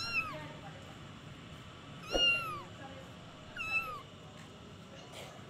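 Kitten meowing three times: short, high calls that each rise then fall, a second and a half to two seconds apart, the middle one the loudest.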